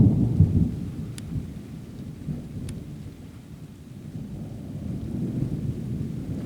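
Thunder rumbling from a close thunderstorm, loudest at the start and dying away over the first couple of seconds, then a low rumble swelling again toward the end.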